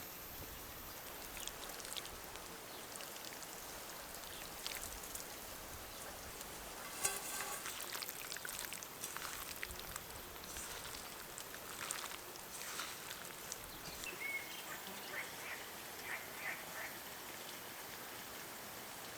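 Food sizzling and crackling in hot oil over a wood fire: a steady hiss with scattered clicks and a sharper knock about seven seconds in.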